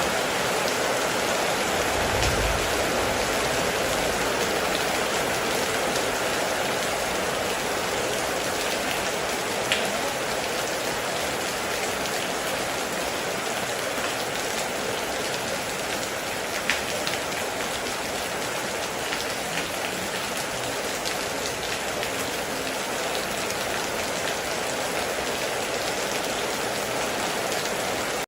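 Heavy rain falling steadily, with a few sharper individual drop hits standing out now and then.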